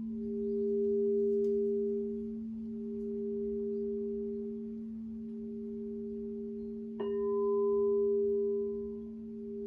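Crystal singing bowls ringing in two steady sustained tones, the loudness swelling and fading every couple of seconds. About seven seconds in, a bowl is struck and a higher ring joins the drone.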